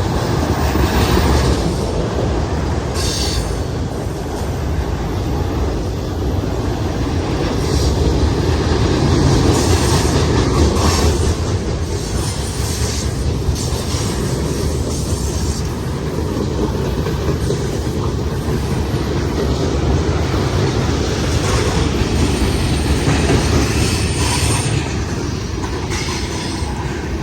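Union Pacific manifest freight train rolling past on a curve: a steady, loud rumble of steel wheels on rail with clacking over the joints, and short wheel squeals now and then as the cars take the curve.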